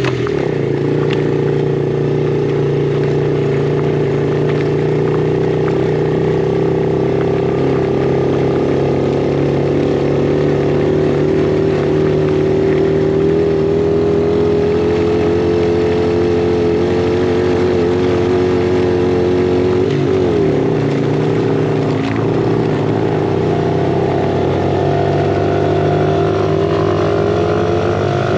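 Yamaha TT-R50E's small four-stroke single-cylinder engine running under throttle while riding, its pitch holding fairly steady. The pitch dips and recovers briefly about twenty seconds in, then rises near the end.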